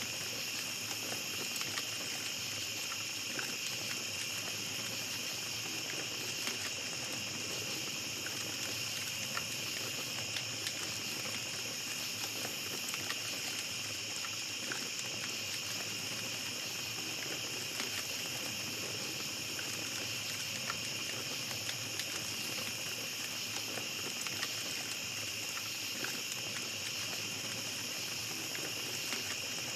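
Small campfire crackling with scattered sharp pops, over a steady high-pitched chorus of night insects such as crickets.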